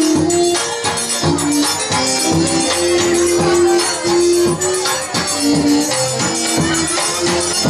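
Live forró band playing an instrumental break between sung verses: an accordion melody of held notes over steady shaker and tambourine-like percussion.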